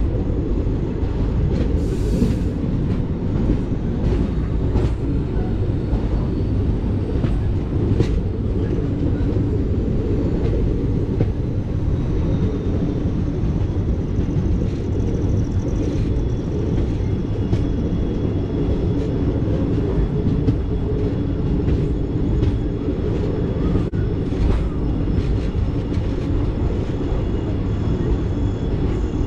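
Passenger train running along the track: a steady low rumble of the coaches, with occasional sharp clicks scattered through it.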